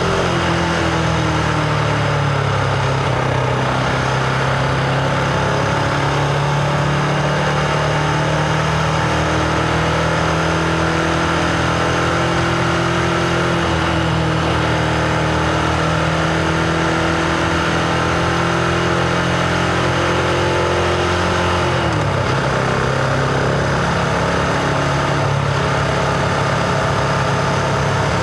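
Husqvarna Vitpilen 701's single-cylinder engine running under way at a steady cruise, heard onboard. Its note holds steady, then falls away about three quarters of the way through before settling again.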